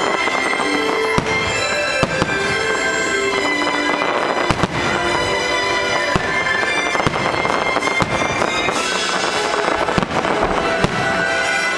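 Aerial firework shells bursting, several sharp bangs scattered through, over loud sustained show music.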